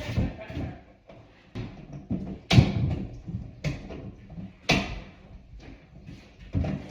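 Irregular sharp knocks and clanks of sheet-metal vent ducting being handled and worked, about five in all, the loudest about two and a half seconds in, with low handling noise between them.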